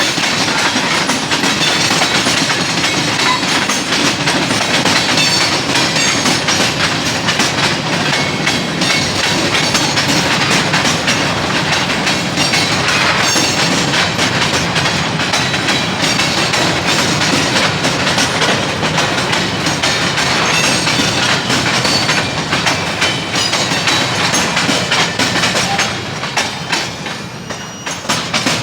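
Train cars rolling past close by, with wheels clicking over the rail joints in a steady clatter. The sound drops away near the end as the train passes.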